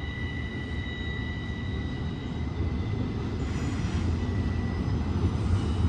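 BNSF container train rolling past, a steady low rumble that grows slightly louder, with a thin high ringing tone fading out over the first couple of seconds.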